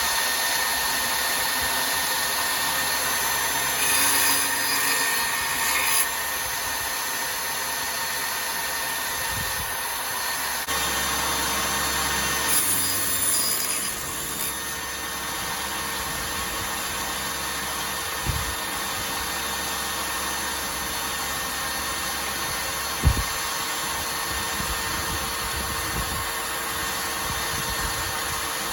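Homemade table saw running steadily and cutting lumber, with a few sharp knocks of wood in the second half.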